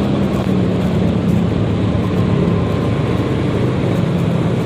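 Yamaha XMAX 300 scooter's single-cylinder engine running on the move, a steady hum over even road noise, its pitch dipping slightly between about one and two and a half seconds in.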